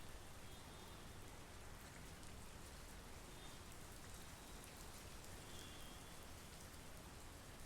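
Faint, steady monsoon rain: an even hiss with scattered drop ticks.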